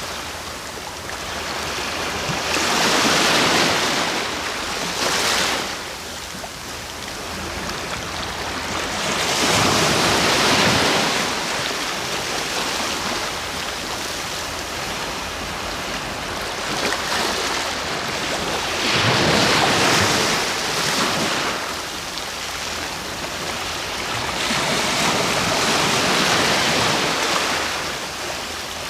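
Sea waves breaking on the shore, a continuous wash of surf that swells up four times as waves come in and falls back between them.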